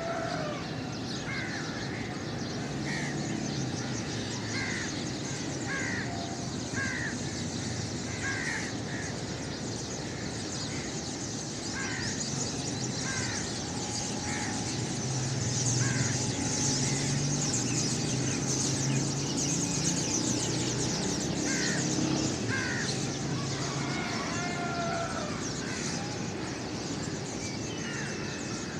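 A flock of birds calling: short harsh caw-like calls repeat every half second to a second over a dense, high twittering chorus. A low steady hum underneath grows louder through the middle.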